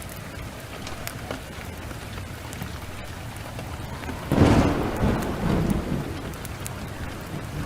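Heavy rain falling steadily, with a clap of thunder about halfway through that rumbles and fades over a couple of seconds; the thunder is the loudest sound.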